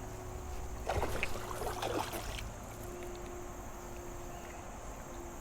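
River water around a kayak, with a short burst of splashing and knocking about a second in that dies away by the middle.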